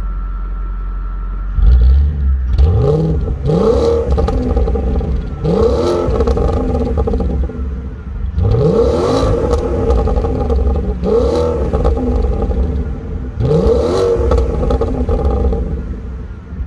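Audi A8 D3's 4.2-litre V8 idling steadily, then blipped repeatedly from about a second and a half in: short runs of quick revs that climb and drop back, with crackles and pops from the exhaust as the revs fall.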